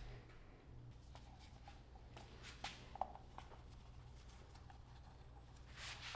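Near silence over a low steady hum, with a few faint clicks and taps about two and a half to three seconds in and a soft rustle near the end.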